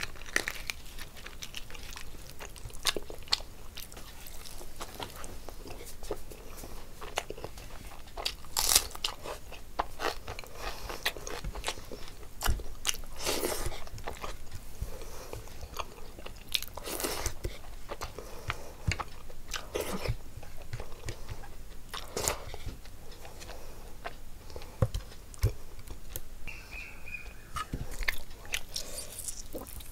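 Close-miked chewing of a mouthful of rice and curry eaten by hand, with irregular sharp clicks and smacks.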